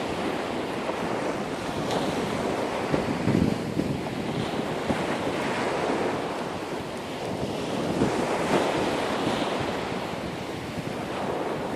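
Ocean surf washing continuously with slow swells, with wind buffeting the microphone.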